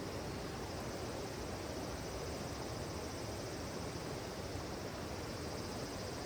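Flowing river water: a steady, even rush with no distinct crackles or pops.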